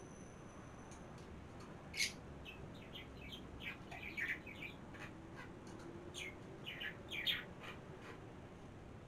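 Small birds chirping: a sharp chirp about two seconds in, then quick clusters of short chirps through the middle, over a faint steady room hum.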